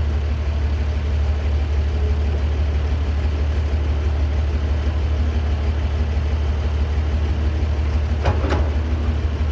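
Caterpillar 312B excavator's diesel engine running steadily with a deep, even drone, and two brief sharper sounds about eight seconds in.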